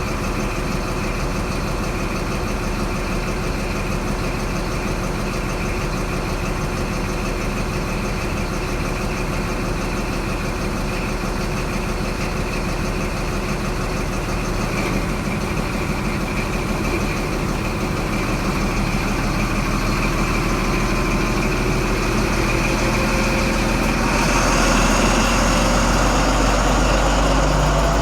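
HST class 43 power cars' diesel engines idling steadily at a station. Near the end the sound grows louder, with added hiss and a higher whine.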